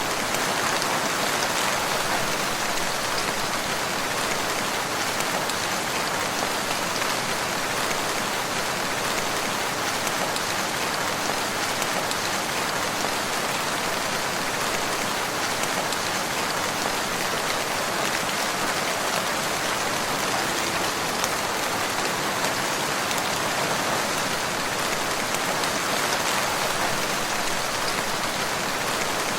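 Steady rain falling on a surface: a dense, even patter that neither builds nor eases.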